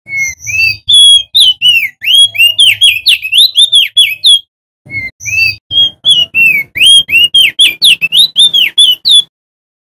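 Male opior jambul (crested dark-eye) singing loudly: two long bursts of rapid, slurred whistled notes, about three to four notes a second, with a short pause about halfway through.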